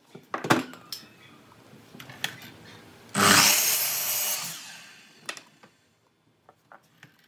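A woodworking power tool running briefly on wood: it starts suddenly about three seconds in and fades out over about two seconds, with knocks and taps of wood being handled before and after.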